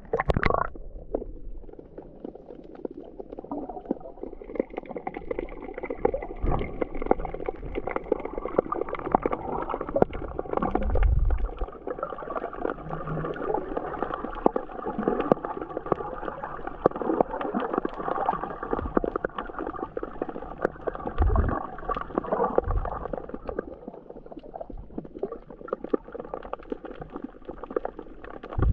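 Water heard from underwater: steady gurgling with dense crackling clicks throughout, and a few low thumps.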